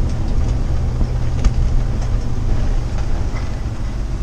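Steady low rumble of engine and road noise inside a moving vehicle, with a faint click about a second and a half in.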